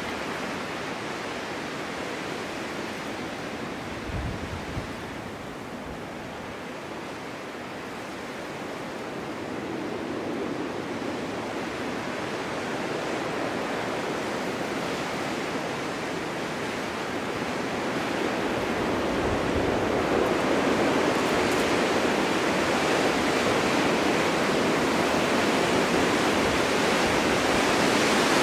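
Snowstorm wind blowing, a steady rushing noise that swells louder in the last third, with a brief low thump about four seconds in.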